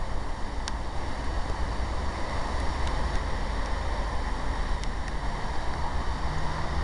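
Steady hiss of rain falling on a garden, with wind buffeting the microphone in a low, uneven rumble and a few faint ticks.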